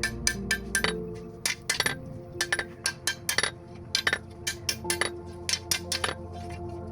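Hammer blows ringing on steel at the anvil, about three to four clinking strikes a second in an uneven rhythm, over background music.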